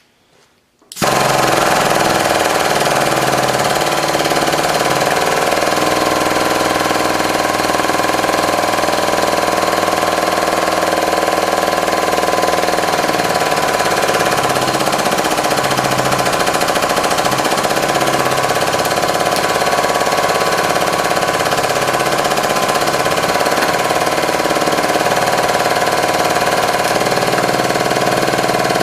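Hydraulic press's pump running steadily under load as the ram presses down on an aluminium engine piston. The press starts up about a second in, with a fast buzzing pulse under a mix of steady tones.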